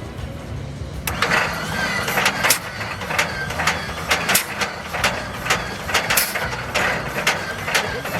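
Continental AVI-1790 V12 tank engine running at low speed with a steady low drone. From about a second in, irregular sharp crackling, hissing bursts come over it.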